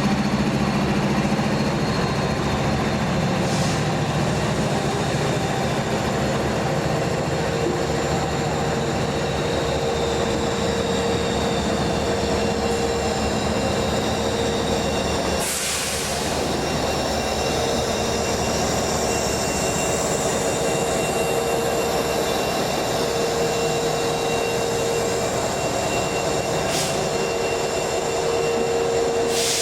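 Freight train rolling past, its cars' wheels squealing on the rails, with a squeal that comes and goes over the steady rumble of the cars.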